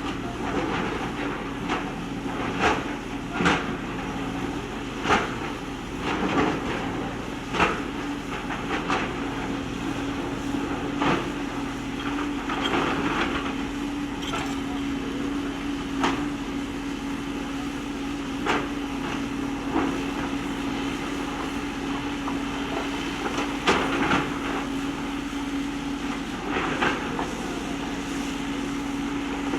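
JCB backhoe loader's diesel engine running steadily under load, with sharp irregular knocks and clatter as the bucket strikes and drags stones, roughly one every second or two.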